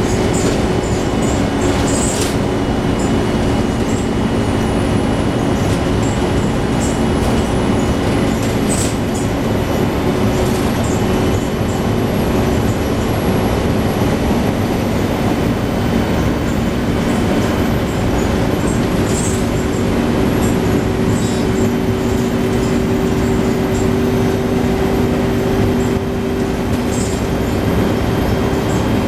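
Scania N113 double-decker bus heard from inside while it is driving: a steady engine and drivetrain drone with a humming tone that strengthens in the second half, and scattered light rattles from the body and fittings.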